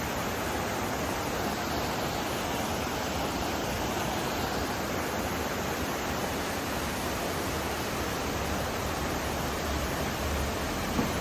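Rushing water of a mountain river, a steady full rush. A brief tap near the end.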